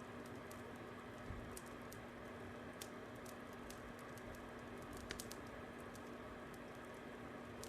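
Wood fire crackling: irregular sharp snaps and small pops, a few louder ones, over a steady hiss and a low hum.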